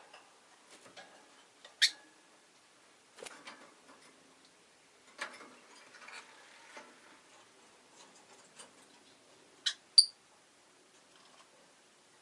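Peach-faced lovebird giving short, sharp chirps: one about two seconds in and a quick pair near the end, the last the loudest. Quieter clicks and soft rustles fall between them.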